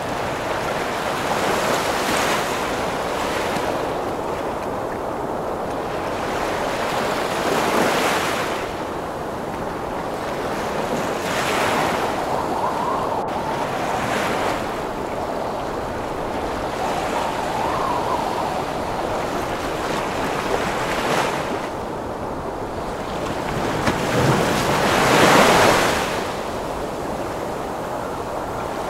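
Heavy ocean waves breaking and washing in, each surge swelling and fading every few seconds under steady storm wind. The largest wave breaks about 25 seconds in.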